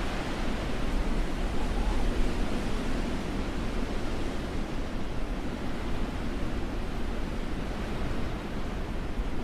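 Blizzard wind blowing as a steady rushing noise, heavy in the low end, swelling and easing a little.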